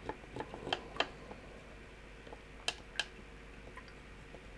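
A few light, sharp clicks and taps of small objects being handled on a hobby work surface: two near the start, two about a second in, and a louder pair near three seconds.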